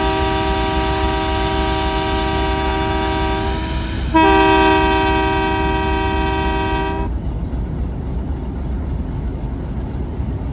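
Train's locomotive horn sounding a long steady blast, then a louder second blast about 4 s in that cuts off suddenly at about 7 s, leaving the low rumble of the train running.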